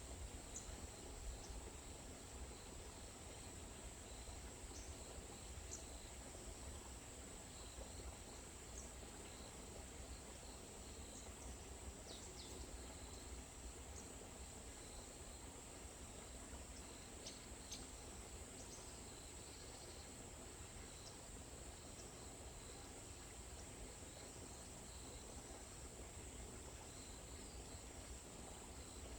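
Insects trilling in an unbroken high drone, with faint short chirps scattered through it.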